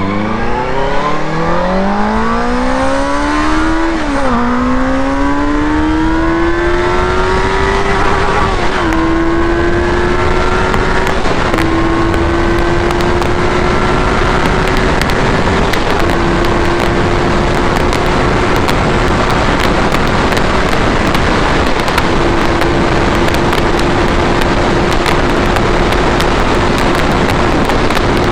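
Benelli 600i's 600cc inline-four engine accelerating hard through the gears. The pitch climbs steeply and drops at each upshift, about 4, 9 and 11.5 seconds in, then climbs more slowly and levels off high at speed. A rushing noise grows as speed builds.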